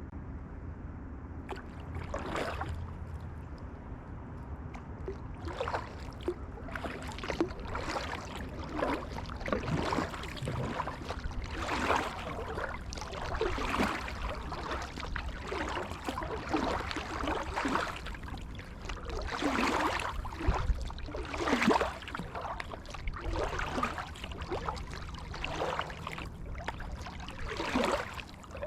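Kayak paddle strokes: the blade dips and splashes into the water about every one and a half to two seconds, over a steady low rumble.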